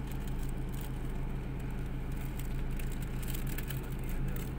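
Car engine running steadily at low speed, heard from inside the car as a low hum, with faint scattered clicks.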